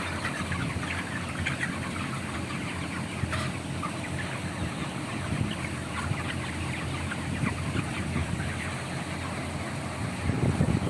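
Dense, continuous twittering of many swiftlets, with a steady low hum underneath.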